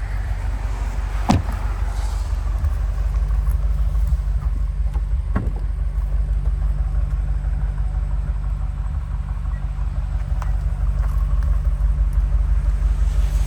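BMW M5's twin-turbo 4.4-litre V8 idling steadily with a low rumble. There is a sharp click about a second in and another about five seconds in.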